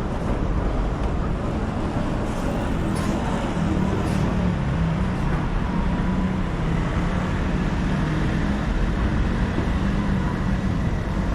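City street traffic noise: a steady wash of passing vehicles, with the low hum of a nearby engine running.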